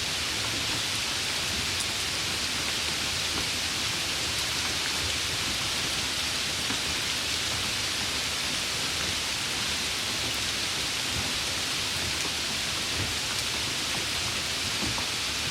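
Steady summer rain falling, an even, unbroken hiss that does not rise or fall.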